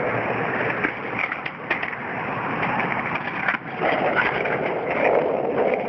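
Skateboard wheels rolling over concrete, a steady rumble broken by several sharp clacks of the board, with a brief drop-off about three and a half seconds in.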